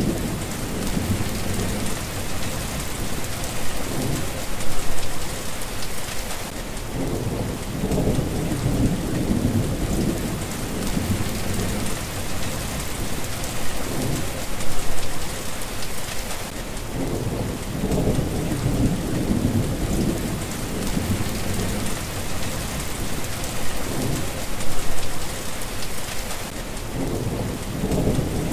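Steady rain falling, with low rolls of thunder swelling up about every ten seconds.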